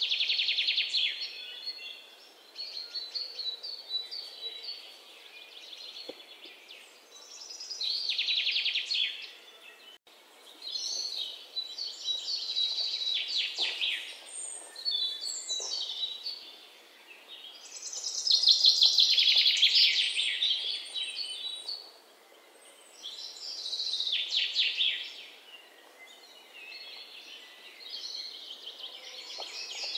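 Birds singing: high trilled phrases of a second or two, repeating every few seconds over a light background hiss.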